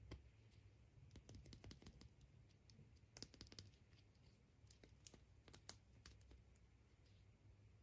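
Faint, irregular clicks and crackles of hands handling small objects or packaging, busiest in the middle.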